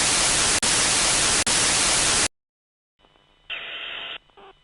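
Loud white-noise static, broken by a brief dropout about every second, that cuts off sharply a little over two seconds in. After a moment of silence comes faint, muffled radio-channel hiss, with a short, louder burst of static about a second later.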